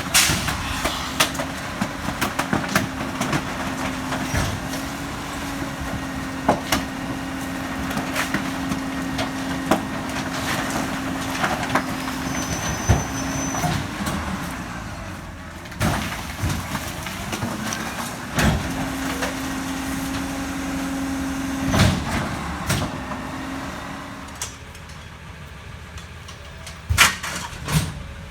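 McNeilus rear-loader garbage truck compacting bulky waste: a steady mechanical drone runs under frequent cracks and bangs as the load is crushed in the hopper. The drone stops for a few seconds midway and again about 24 seconds in, and two loud bangs follow near the end.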